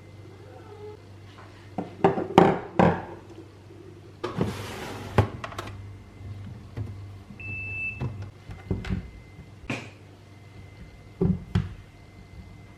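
Scattered knocks and thumps of household objects being handled in a small room, with a brief hiss about four seconds in and a short high beep about seven seconds in.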